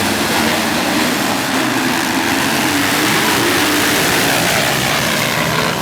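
Motocross bike engines running and revving, their pitch wavering up and down over a steady, dense din.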